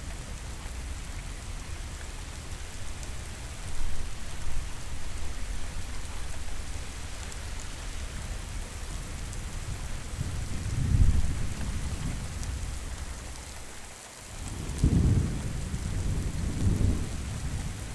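Steady rain falling, with low rolling thunder rumbling twice: once about ten seconds in and again near the end.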